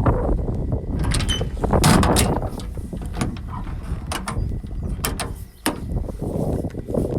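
Clicks and clunks of a mini truck's latch and door being worked, a series of separate knocks, over wind buffeting the microphone.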